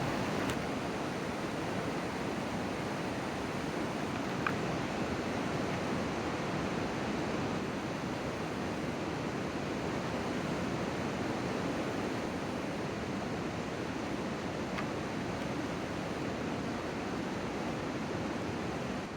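Steady outdoor rushing noise, even and unbroken, with a faint click about four seconds in and another near the end.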